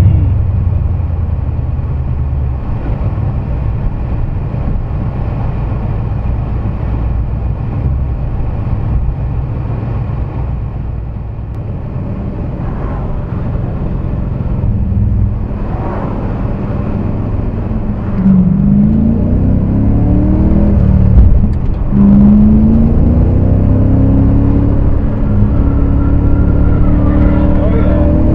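BMW E39 M5's V8 engine at speed on a race circuit, running fairly steadily through the first half. Then it accelerates hard, the revs climbing in pitch several times over.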